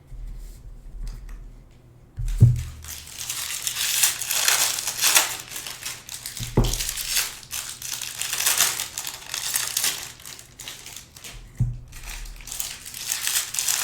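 Plastic wrapping on trading card packaging crinkling and being crumpled as it is handled and torn, with a few dull knocks on the table.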